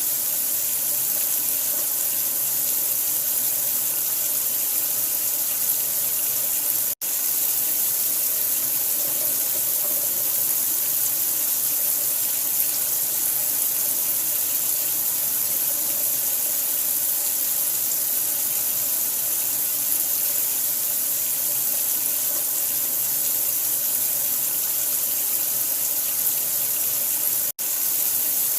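Steady running water with a bright hiss, like a tap running into a sink. It drops out for an instant twice, about a quarter of the way in and near the end.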